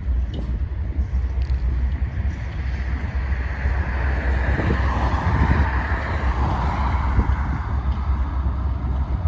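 A freight train's cars rolling past, a steady low rumble of wheels on the rails. A rushing sound swells and fades between about four and seven seconds in.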